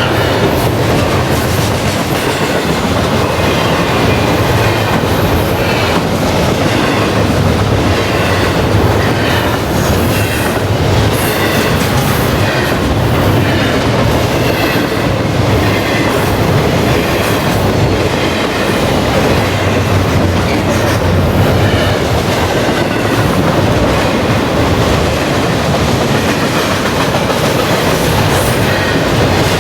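Norfolk Southern double-stack intermodal freight train rolling past, a steady rumble with the clickety-clack of its wheels going over the rail joints.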